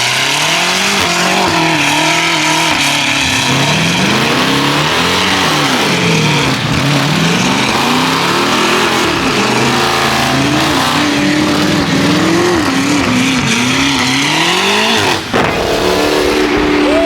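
Car engines revving hard, the pitch climbing and falling again and again every second or two.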